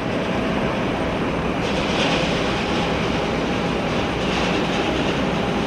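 Steady rumble and hiss of jet aircraft engines at the airport, with the hiss growing a little stronger about one and a half seconds in.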